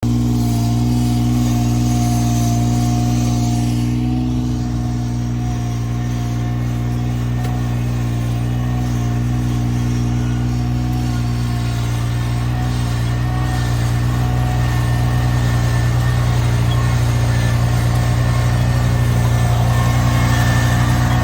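An engine running steadily at constant speed, growing slightly louder toward the end.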